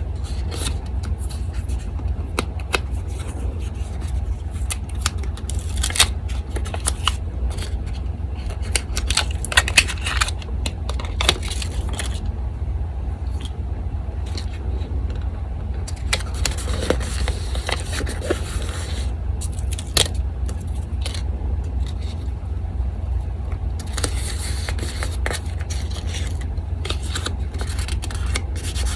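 Paper being handled and cut with scissors: scattered rustles, scrapes and snips over the steady low hum of an electric fan.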